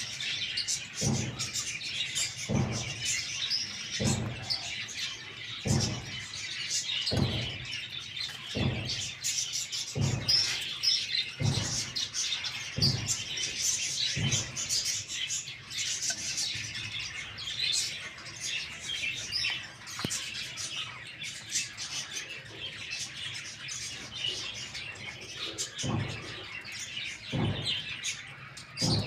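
Many small birds chirping at once, a dense steady chatter. A short low thump repeats about every one and a half seconds through the first half and again near the end.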